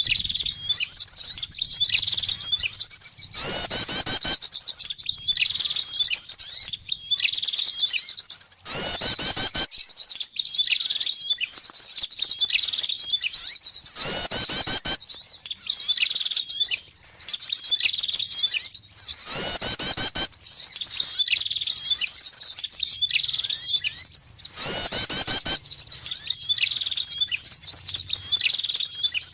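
A bird-lure recording of small songbirds, prinias and similar birds, chirping rapidly and without a break in a dense, high-pitched chatter. A louder sweeping call or stroke comes round about every five seconds, like a looped track.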